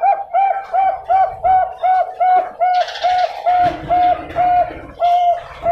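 Bangkok-strain zebra dove (perkutut) cooing: a steady run of about fourteen short, even notes, the later ones spaced a little wider apart.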